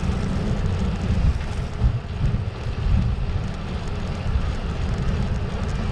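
Wind buffeting the microphone of a camera on a moving bicycle: a low, gusty noise with a fainter hiss above it.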